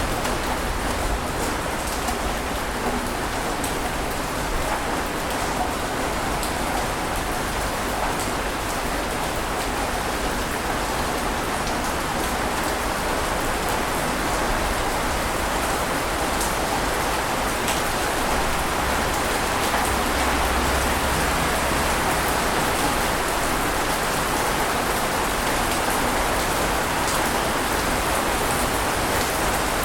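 Ocean surf: a continuous wash of waves breaking on a beach, steady with no separate crashes standing out.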